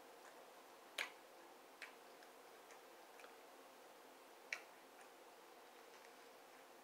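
Near silence broken by a few wet mouth clicks from a person chewing a soft tortilla wrap with lips closed. Two sharp smacks come about a second in and again about four and a half seconds in, with fainter ones between.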